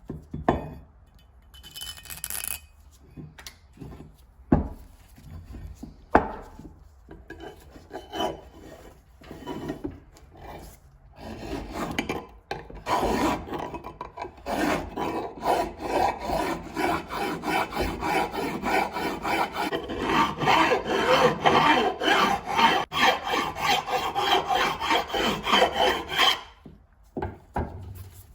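Scattered knocks and clicks of brass parts being handled, then, from about halfway, a long run of rapid back-and-forth abrasive hand strokes on brass that stops near the end.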